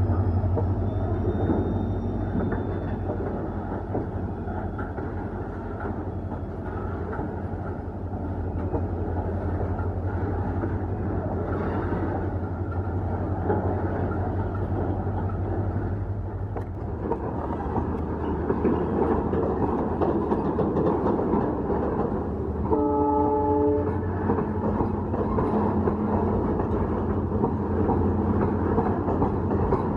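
A freight train of tank wagons running past behind a WDG-4 diesel locomotive: a steady low engine drone for the first half, then wheels clattering and rumbling over the rails, louder from about halfway. A short horn blast of about a second sounds about three-quarters of the way through.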